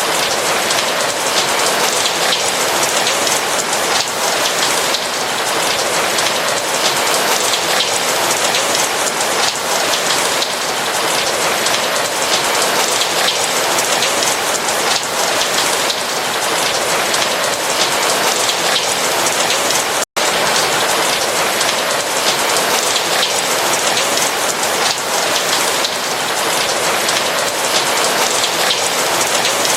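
Steady rain pattering on a roof, a dense even hiss of drops, with a split-second cut to silence about two-thirds of the way through.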